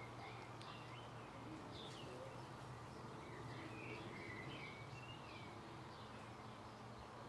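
Small birds chirping faintly on and off, over a low steady hum.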